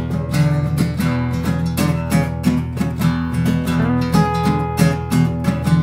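Instrumental passage of a song: strummed acoustic guitar over a steady bass line, with an even, quick beat of sharp strokes.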